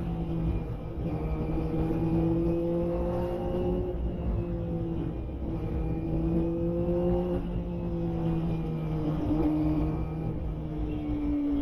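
Kawasaki ZX-25R's 250 cc inline-four, fitted with a Yoshimura Alpha exhaust, running at high revs under way. The steady exhaust note creeps up in pitch and drops back a few times, over a low rumble.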